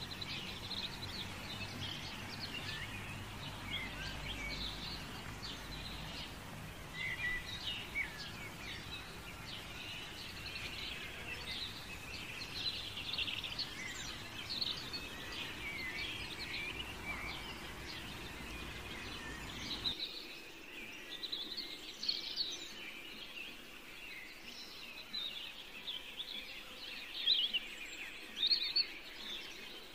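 Many small birds chirping and twittering continuously in the background, with a low steady hum that cuts off about two-thirds of the way through.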